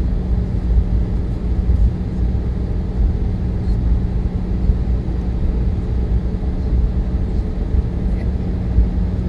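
Steady jet airliner noise heard from inside the cabin: a loud, even low rumble of engines and airflow with a constant hum.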